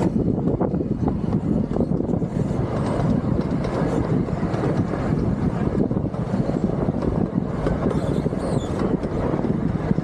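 Miniature park train running along its track, heard from aboard the open passenger cars: a steady rumble and rattle of wheels and cars.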